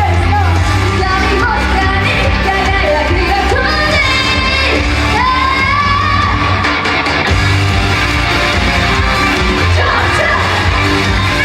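Loud idol pop song playing over a hall PA with a voice singing the melody and a steady heavy bass beat, the audience shouting and yelling along.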